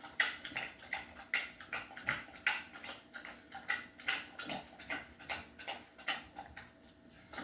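A pet eating a snack: quick, wet chewing or licking strokes, about three a second, that thin out and fade near the end.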